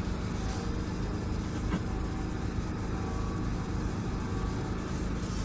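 Steady low vehicle rumble with a constant hum, even throughout.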